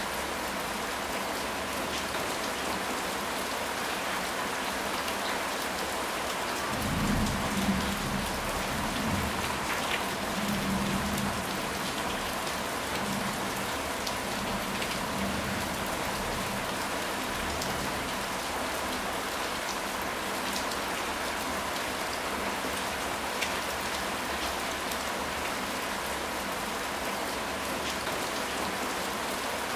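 Steady heavy rain hissing and pattering, with a low roll of thunder about seven seconds in that rumbles for several seconds and fades away.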